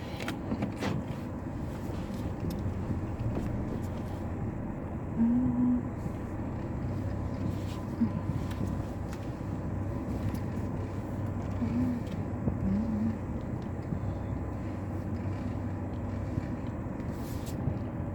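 Truck engine running with a steady low rumble, heard from inside the cab as the truck is driven a short way to another parking spot. A few short low tones and a click sound over it.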